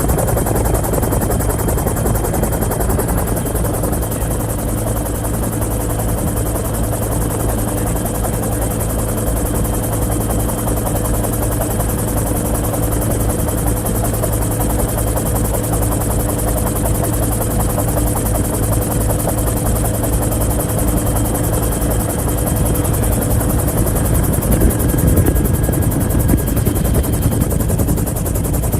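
Helicopter running steadily, a fast even beat of rotor blade slaps with a steady engine hum.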